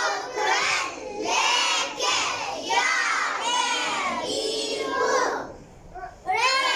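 A class of young children reading aloud in unison, chanting the words syllable by syllable, with a short pause near the end.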